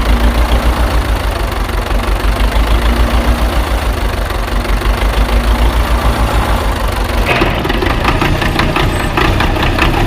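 Engine-like running sound with a steady low pulse. About seven seconds in it gives way to music with a beat.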